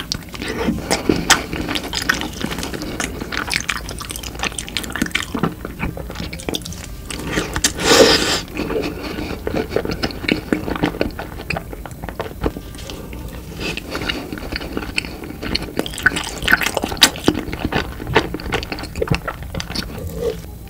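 Close-miked mukbang eating sounds: wet chewing and mouth noises with many small irregular clicks, and a louder, longer wet noise about eight seconds in.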